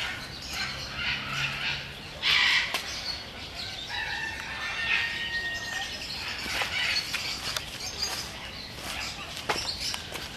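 Birds chirping and calling, with brief rustling bursts, one louder a little over two seconds in, and a thin whistled note held for about a second near the middle.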